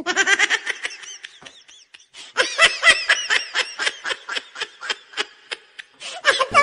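Laughter: a long run of quick, pitched 'ha' bursts, about five a second, which dips briefly about two seconds in and then picks up again.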